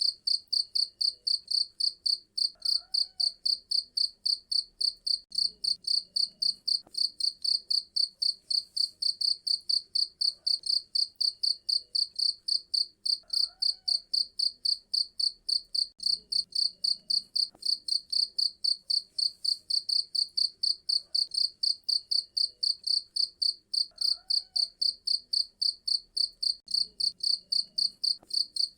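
Cricket chirping steadily in a fast, even rhythm of about three to four high-pitched chirps a second.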